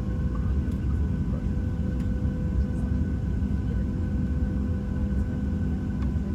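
Steady low rumble of a Boeing 737-800 passenger cabin on the ground, with faint steady whines above it.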